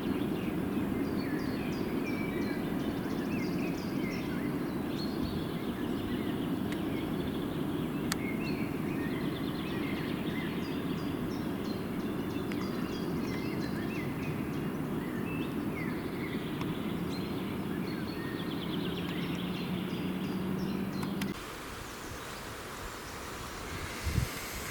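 Forest birds chirping and trilling over a steady low noise, which stops abruptly about 21 seconds in, leaving the birdsong quieter.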